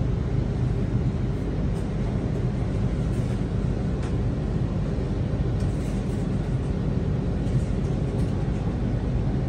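Electric passenger train heard from inside the carriage while it runs: a steady low rumble and hum.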